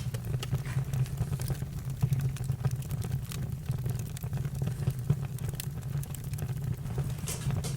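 Campfire crackling, with irregular small pops over a steady low rumble.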